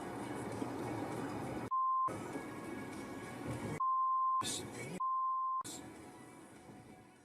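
Three short censor bleeps, a steady pure beep tone that blanks out the other audio, about two, four and five seconds in, over background music. The sound fades out near the end.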